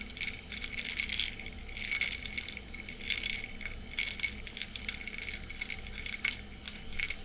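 Ice cubes swirled in a glass of ice water, clinking against the glass in short rattling bursts about once a second, each with a bright glassy ring.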